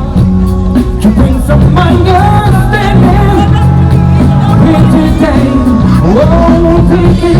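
A live band playing, loud: a sung or played lead melody that slides between held notes over steady bass and drums.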